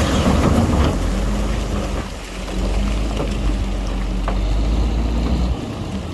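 Heavy diesel engine of earthmoving machinery running with a steady low drone and a few scattered clicks; the drone drops off suddenly about five and a half seconds in.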